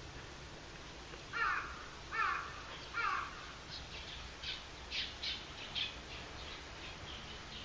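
A wild bird calling: three harsh calls, each falling in pitch, about a second apart, followed by a quicker run of shorter, higher notes.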